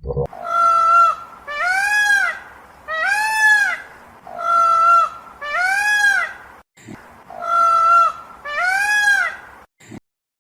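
A large bird calling repeatedly: about eight loud, clear calls, each under a second and about a second apart, some held at one pitch and others rising and falling.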